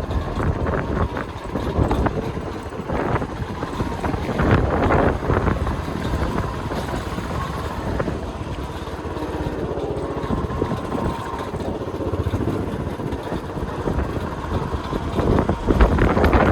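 Vehicle road noise with wind buffeting the microphone: a loud, uneven rumble that swells and dips, with no clear engine note.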